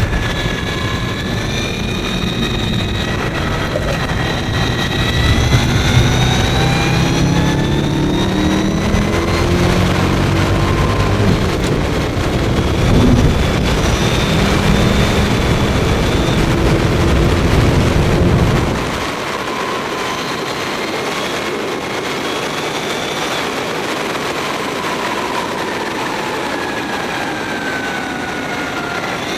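Mavizen TTX02 electric racing motorcycle at speed, heard onboard: the electric motor's whine rises and falls in pitch with road speed over wind rush. A heavy low rumble runs through the first two-thirds and cuts off suddenly.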